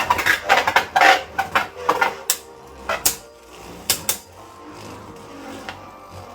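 Hard plastic and metal Beyblade tops and parts clicking and clattering: a string of sharp knocks in the first few seconds, then quieter.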